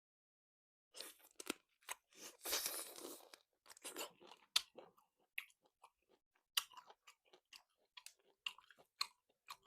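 Biting and chewing salt-cured chicken with crispy skin: irregular crunches and clicks that start about a second in, with a longer run of crunching between two and three and a half seconds.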